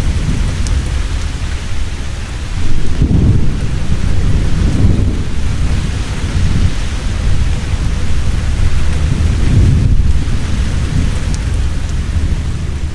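Heavy rain falling steadily with deep rolling thunder rumbling underneath, swelling in waves several times.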